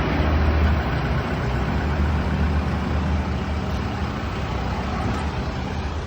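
Steady low motor hum under a broad rush of noise, slowly easing in level.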